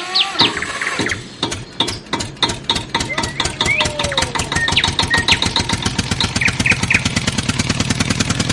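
Engine chugging with a rapid, even run of firing beats, with birds chirping over it.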